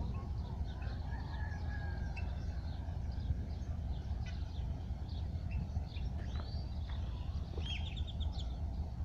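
Small birds calling and chirping, with a quick run of about five repeated notes near the end, over a steady low rumble.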